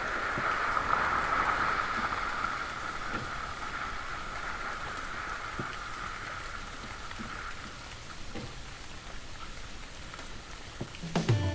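Steady hiss of water that slowly fades, with scattered faint ticks.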